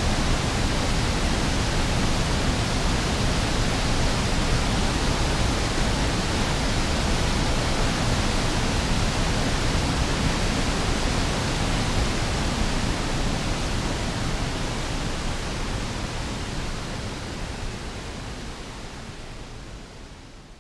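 Waterfall: a heavy volume of water falling, a steady loud rush with no let-up, fading out over the last few seconds.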